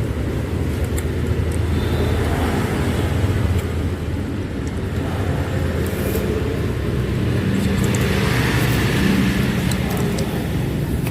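Steady road traffic passing close by: vehicle engines running, swelling a little twice as vehicles go past, with a few faint clicks.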